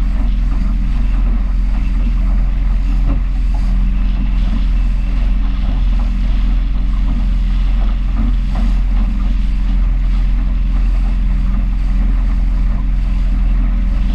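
A small powerboat's engine running at a steady speed, with wind and water rushing over the boat as it moves.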